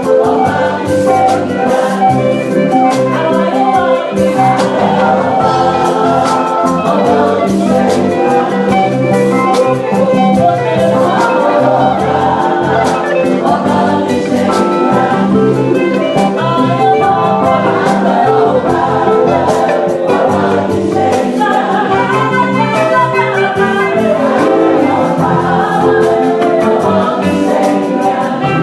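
Church choir singing a gospel anthem over instrumental accompaniment, with a steady run of percussion hits throughout.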